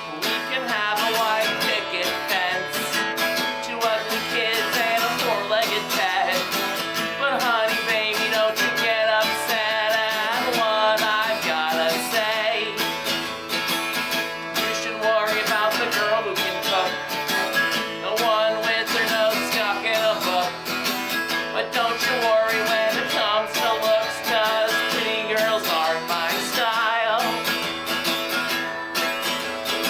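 Live acoustic performance of a country-style song: acoustic guitar strummed steadily, with a wavering melody line over it.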